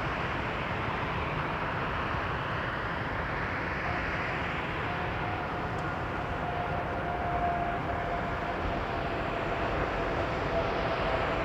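Passenger jet airliner on approach to land: a steady jet engine rumble with a faint whine that slowly sinks in pitch, growing a little louder near the end.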